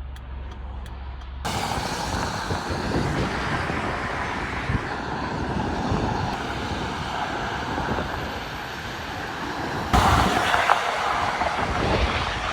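Car driving along, with road and traffic noise that rises suddenly about a second and a half in and grows louder again near the end. A faint, evenly spaced ticking is heard over a low hum at the start.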